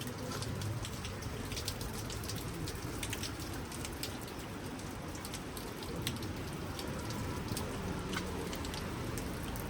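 Steady rain falling, with many individual drops ticking and pattering irregularly close by.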